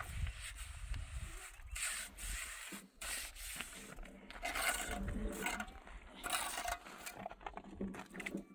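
About five rough scraping strokes, one every second and a half or so, of a tool working sand-and-cement mortar.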